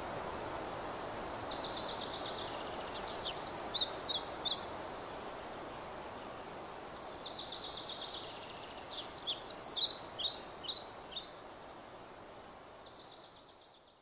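Rice-field ambience: a steady low rushing noise with a small bird singing twice, each song a buzzy trill running into a quick run of sharp, chirpy notes. The sound fades out near the end.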